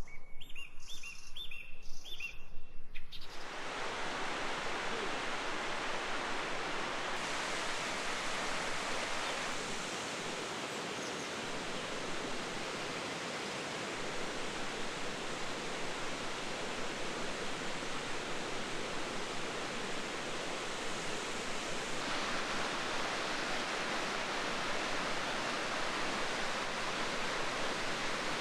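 A few short bird chirps, then, about three seconds in, a steady rushing noise of running water sets in and continues evenly.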